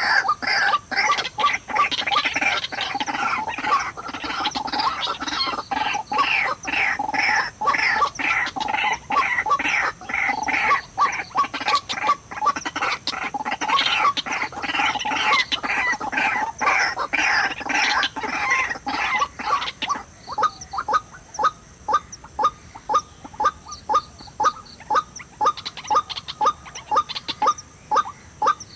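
White-breasted waterhen calls: a dense run of rapid, repeated croaking notes. About 20 s in, they give way to a steady series of single notes, roughly two to three a second.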